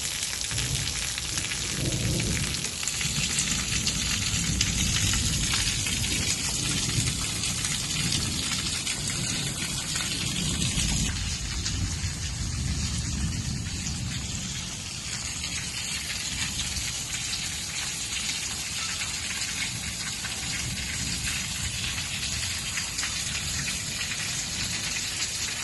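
Steady rain falling hard during a thunderstorm. Low rumbling thunder rolls under it through roughly the first half, then fades.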